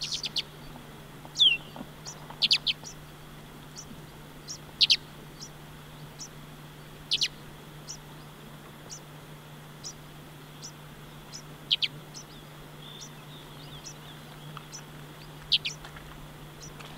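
A small bird calling with short, sharp, high chirps, some falling in pitch, singly or in quick pairs every second or two, over a faint steady low hum.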